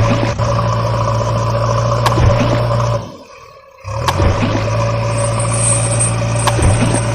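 Steady engine running sound, an idling-style drone that drops out for about a second near the middle and then resumes at the same pitch.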